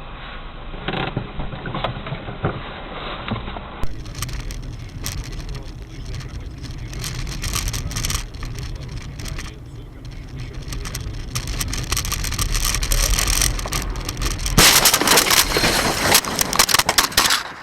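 Car engine and road noise from dashcam recordings, with a cut to a different recording about four seconds in, then knocks and a loud rough noise over the last three seconds.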